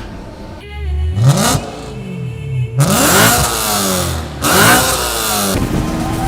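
Car engine revving hard, its pitch climbing and dropping about three times with rushes of noise at the peaks, then holding a steadier note near the end.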